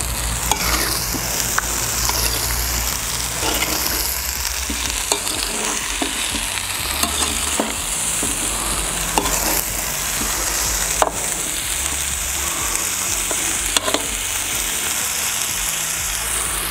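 Duck and vegetables sizzling steadily as they fry in a kazan, stirred with a metal skimmer that clicks and scrapes against the pot now and then.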